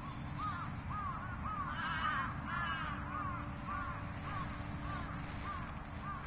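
Birds calling: a run of short arching calls, about two a second, that grows louder and more crowded about two seconds in, over a low steady background rumble.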